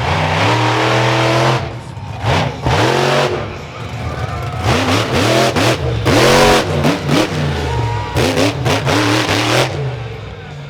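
Monster truck engine revving hard again and again, the pitch sweeping up and falling back in quick swoops between loud full-throttle bursts.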